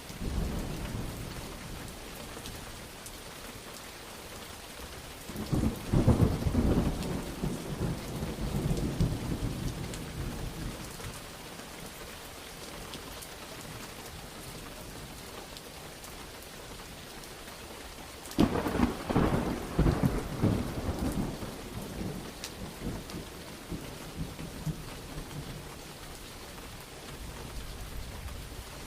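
Steady rain falling, with two long rolls of thunder: one about six seconds in and another about eighteen seconds in, each rumbling on for several seconds before fading back to the rain.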